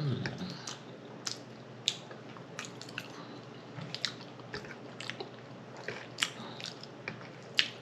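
Close-up mouth sounds of a person chewing food, with irregular wet smacks and clicks of the lips and tongue.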